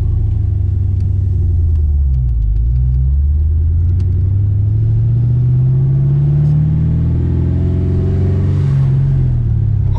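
Ford Mustang GT's 4.6-litre two-valve V8, breathing through Flowmaster mufflers, accelerating: the engine note dips about two seconds in, climbs steadily through a gear, then drops at a shift near the end and starts climbing again.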